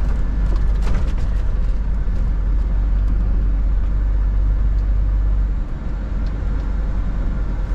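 Scania R 450 truck with a 13-litre inline-six diesel on the move: a steady low engine and road rumble with a brief click about a second in. The deep rumble eases a little near the end.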